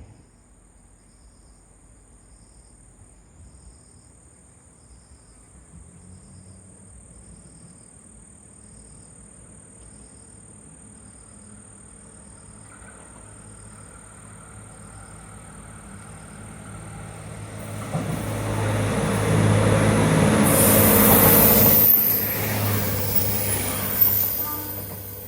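JR Kyushu YC1 series diesel railcar approaching and passing close by. A low engine hum builds over several seconds, then a loud rush of wheels on rail lasts a few seconds as it goes by. The sound fades near the end, with a single clank.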